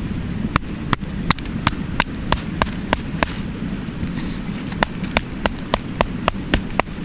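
Sharp knocks or strikes repeated about three times a second, in two runs with a pause between, over the steady rush of a mountain stream.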